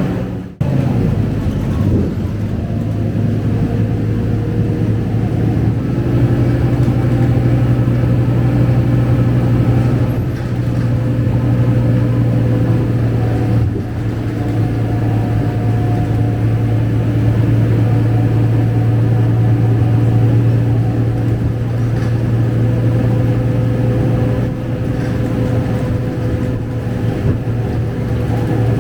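Scania K250UB single-decker bus heard from inside while under way: its diesel engine drones steadily with the rumble of the ride. The sound drops out briefly about half a second in.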